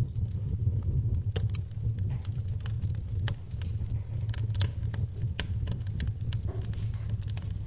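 Wood fire in a fireplace crackling, with many sharp pops scattered irregularly over a steady low rumble, and rain falling behind it.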